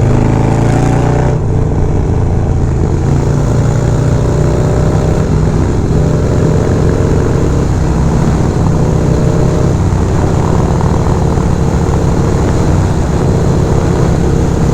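Harley-Davidson V-twin motorcycle with a Fab 28 exhaust running under way: the engine note shifts in pitch in the first second or so, then holds a loud, steady drone while cruising.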